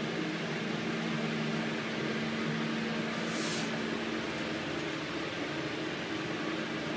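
Steady machine hum with one constant tone, heard inside a small steel bilge compartment, with a short hiss about three and a half seconds in.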